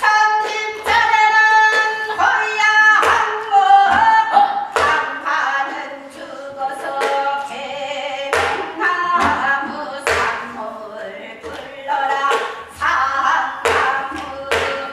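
Korean Gyeonggi folk singing in the fast patter style of hwimori japga, the voice wavering with vibrato. Sharp percussive strokes with low thuds land between the phrases.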